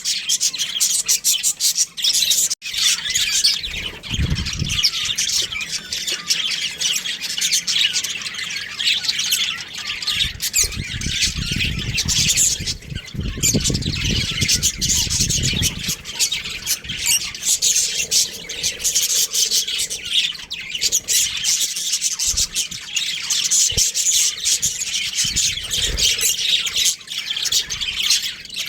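Budgerigars chattering: a constant, dense mix of high chirps and squawks from several birds.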